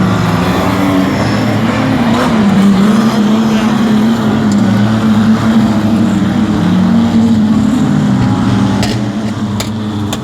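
Stock car engines racing around a speedway track, their notes rising and falling as the cars rev through the laps. The sound eases a little near the end, with a few sharp clicks.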